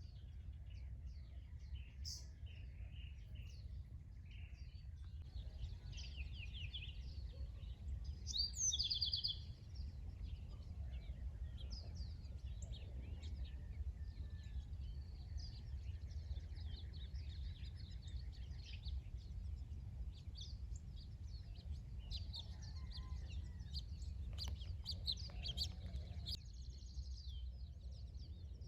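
Several wild birds chirping and singing, with a louder burst of rapid trilling notes about nine seconds in, over a steady low rumble.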